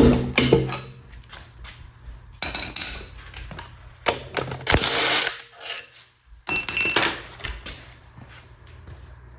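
A power tool runs in three short bursts, each about a second long, the second with a rising whine, as a bolt is driven during Ford 5.0 cylinder-head removal. A low steady hum sits underneath.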